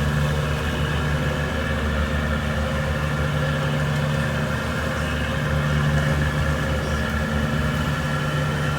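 Boat engine running steadily at low speed, a constant low hum with an even pitch.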